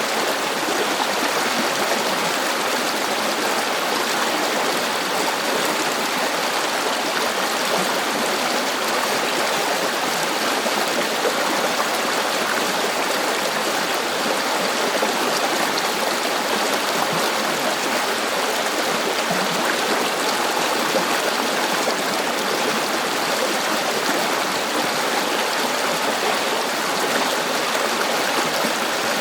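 River water flowing steadily over stones, an even rushing and babbling with no change.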